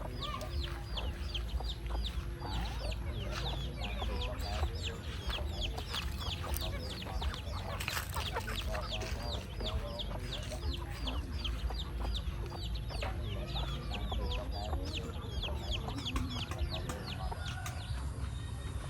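Chickens in a farmyard: quick high falling chirps repeat a few times a second throughout, with softer low clucking mixed in, over a steady low rumble.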